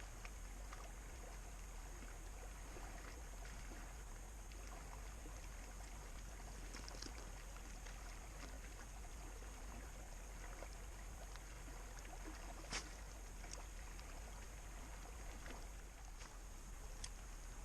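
Steady, quiet rush of a stream's flowing water, with scattered small ticks and one sharper click about two-thirds of the way through.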